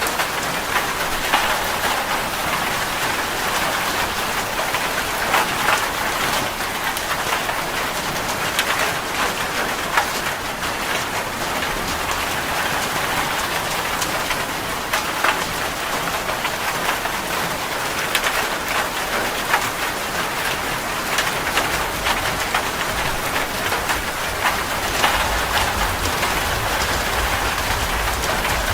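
Heavy rain falling steadily on a metal roof, with many sharp individual drop hits over the steady hiss. A low rumble of thunder comes in near the end.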